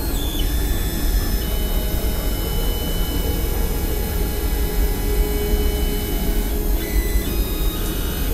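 An electric shop motor running steadily with a loud rushing noise and a high whine. It was switched on just before and slows and cuts off right at the end.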